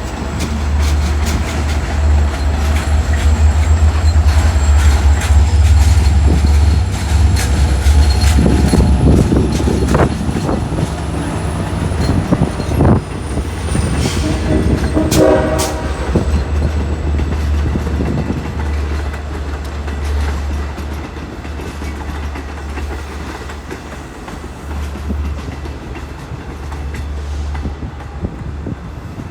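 A train passes close by with a heavy low rumble and a faint high whine that slowly falls in pitch. A short horn sounds about halfway through, and the rumble fades toward the end.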